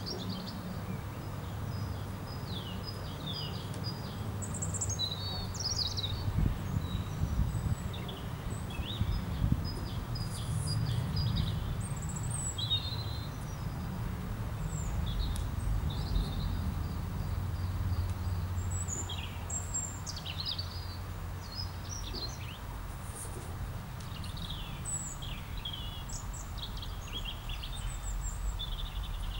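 Several small birds singing and chirping, with many short high calls and trills overlapping, over a steady low rumble.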